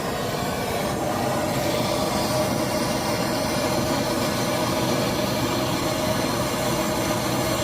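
Heat gun running steadily, its fan motor whining over the rush of air, as it blows hot air down a cold 6.0 Power Stroke diesel's intake to stand in for a failed glow plug module.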